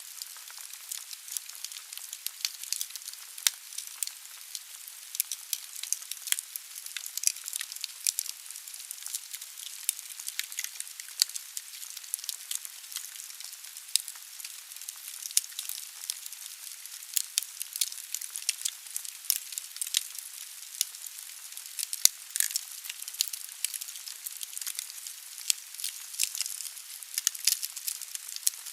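Wood fire burning in a fireplace: a steady hiss with many sharp, irregular crackles and pops of burning logs.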